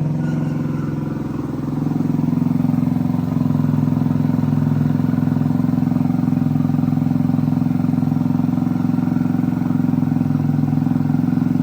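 Moped engine, freshly swapped in, running steadily on its first start; its note sags for a moment about a second in, then picks back up and holds even.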